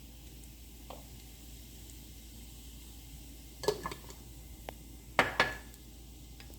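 Cumin seeds sizzling gently in hot ghee and oil in a pressure cooker, with a spoon clattering against the pot in two short bursts, about four and five seconds in.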